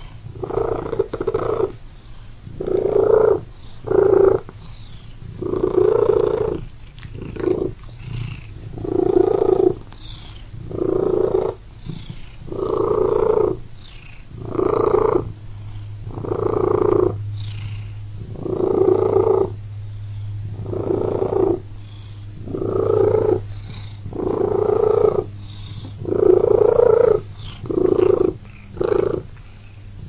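Domestic cat purring, a rasping purr that pulses with each breath in and out, about one pulse every second and a half.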